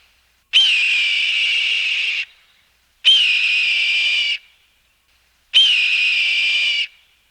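A high, steady whistle sounded in three long blasts of a second or more each, every blast opening with a brief upward flick in pitch and stopping cleanly, with short silences between.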